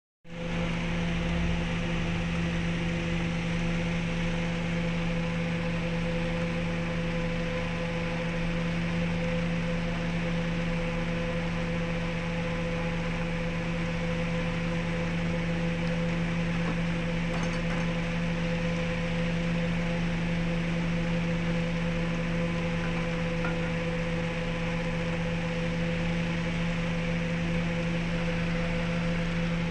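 An electric motor running steadily, a constant hum with a steady hiss and no changes in speed.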